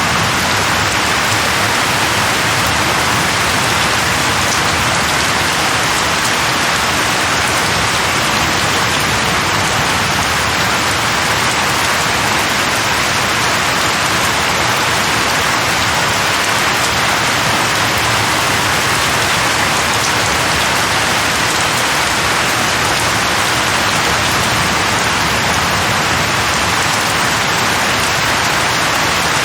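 Steady rain falling on leaves, a constant even hiss without breaks or thunder.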